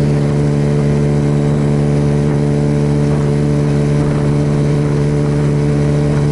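Suzuki Yes motorcycle's single-cylinder engine running at a steady speed, holding one even pitch, with wind rushing past the action camera.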